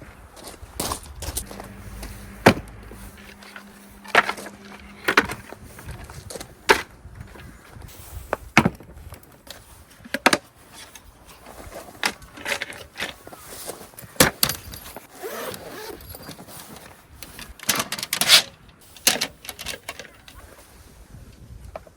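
Irregular clicks, knocks and clatter of objects being handled and set down, with a faint steady hum for a few seconds near the start.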